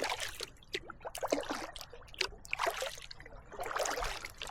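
Kayak paddle strokes: water splashing and trickling off the blades with each dip, four strokes a little over a second apart.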